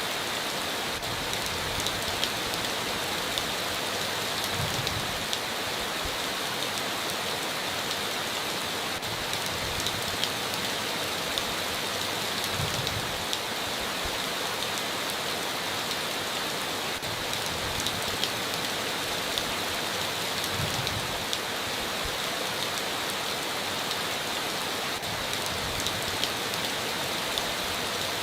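Steady heavy rain falling on a tin roof, with a constant hiss and many sharp individual drop ticks.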